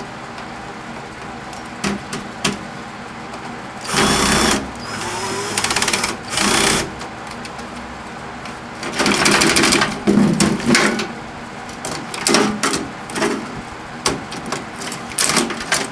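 Cordless drill-driver running in short bursts, several times over, backing screws out of a microwave oven's sheet-metal chassis. A steady low hum runs underneath.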